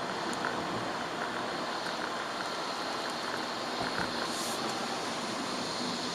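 Steady hiss of rain and wet-road tyre noise in a moving Chevrolet Aveo, with scattered light ticks of raindrops and a brief sharper hiss about four seconds in.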